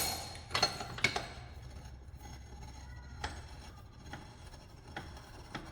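Metal tools clinking and tapping against metal suspension parts: a few sharp knocks in the first second or so, then scattered lighter taps, over a steady low workshop hum.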